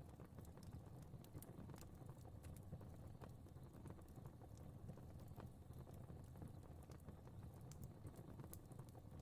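Fire crackling faintly in a fireplace: scattered, irregular pops and snaps over a low, steady rumble of flame.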